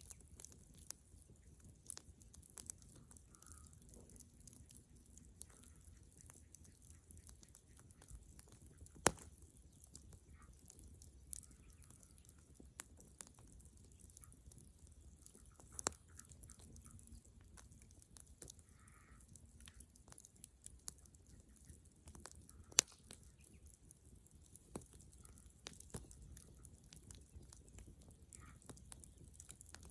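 Dead-wood bonfire crackling: irregular small pops and snaps, with two louder pops, one about nine seconds in and one about twenty-three seconds in.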